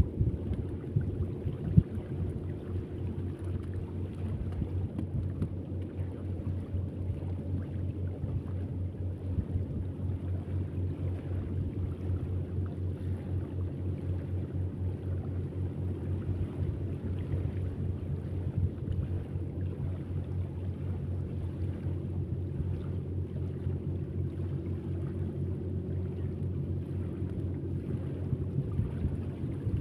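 An engine running steadily at constant speed, a low hum with a fast, even pulse.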